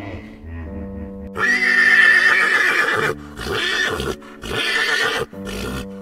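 Horse whinnying: a long loud neigh about a second and a half in, followed by several shorter calls, over background music.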